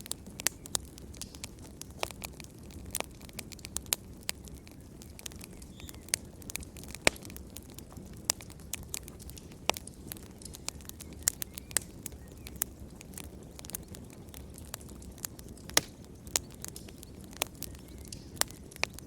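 Wood fire crackling in a fireplace: irregular sharp pops and snaps, several a second at times, over a low steady rush of flame.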